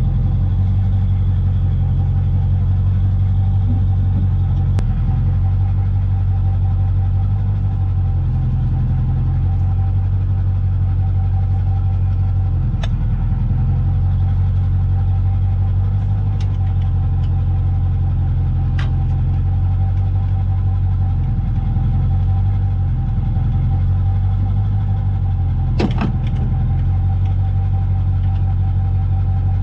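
Vehicle engine running steadily with a deep, even hum, with a few short clicks or knocks, one a little louder about 26 seconds in.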